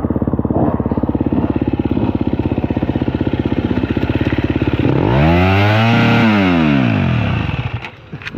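Dirt bike engine running steadily with an even pulsing note, then revving up and back down once about five seconds in, before the level drops near the end with a few sharp clicks.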